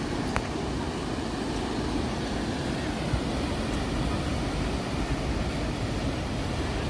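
Sea waves surging and washing ashore, a steady rushing noise.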